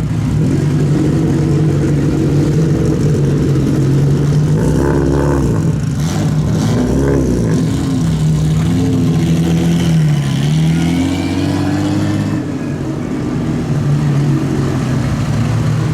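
Rally car engines running and being revved, the pitch rising and falling several times as the throttle is blipped.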